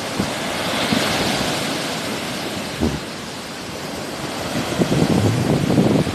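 Sea waves washing on the shore, with a swell of hiss about a second in. Wind buffets the microphone in low rumbling gusts near the end.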